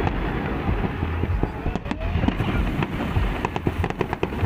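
Fireworks display going off: many sharp bangs and crackles in quick, irregular succession over a continuous low rumble.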